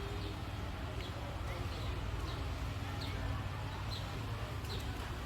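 Birds chirping, short high calls about once a second, over a steady low rumble.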